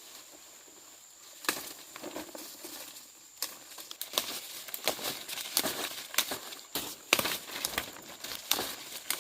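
Irregular rustling and crinkling with small snaps, sparse at first and growing busier after about three seconds, over a faint steady high-pitched whine.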